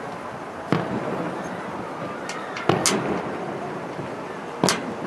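Aerial fireworks shells bursting: a bang about three-quarters of a second in, a few crackles and then a quick double bang a little before the three-second mark, and another bang near the end, over steady background noise.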